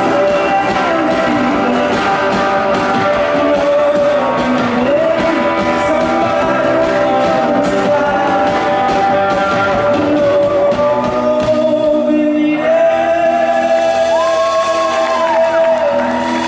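Live band music: a long, held melody line that slides between notes over steady guitar chords, with singing.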